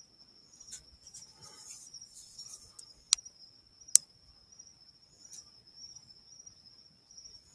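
Crickets trilling in one steady, high-pitched note at night, with two sharp clicks a little under a second apart about three seconds in.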